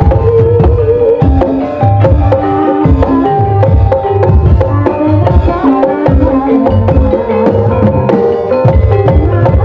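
Live ebeg accompaniment: a Javanese gamelan ensemble with kendang hand drums beating a steady, even rhythm under held melodic tones.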